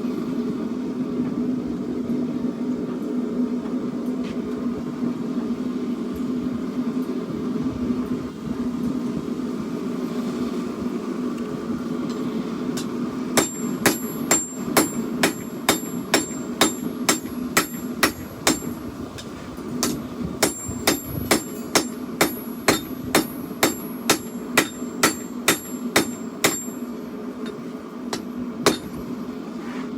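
Hammer blows on steel against an anvil while forging a chopper blade: a run of sharp ringing strikes, about two to three a second, begins about halfway in, pauses briefly, then starts again. A steady low hum runs underneath throughout.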